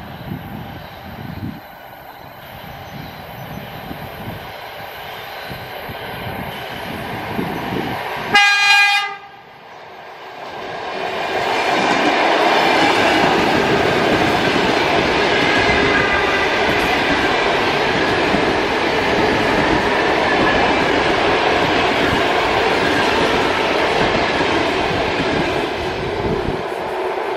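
Electric train approaching with a rising rumble, then one short horn blast about eight seconds in. It then passes close by with a loud, steady rolling noise of wheels on rails.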